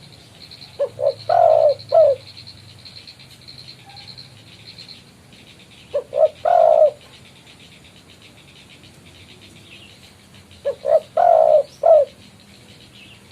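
Spotted dove (tekukur) cooing its territorial call three times, about five seconds apart. Each phrase is two or three short coos, a longer coo, then a final short note. A faint high insect trill pulses behind the first calls.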